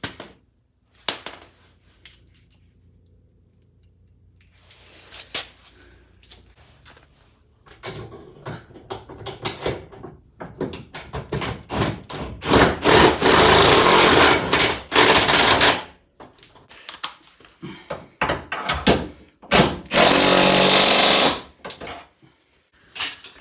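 Impact wrench hammering subframe bolts home in two runs, the first about three seconds long and the second shorter, with clinks and knocks of tools and bolts in between.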